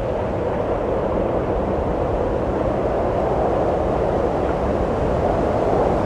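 Wind blowing steadily: a continuous rushing noise that grows a little louder near the end.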